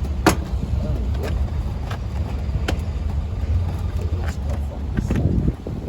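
Scattered sharp clicks and knocks of hand tools and plastic trim fasteners being worked loose from a car's front bumper cover, about six in all, the loudest just after the start, over a steady low rumble.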